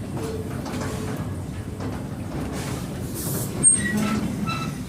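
Steady rumble of a railway passenger wagon running along the track, heard from on board, with a few short high squeaks in the second half.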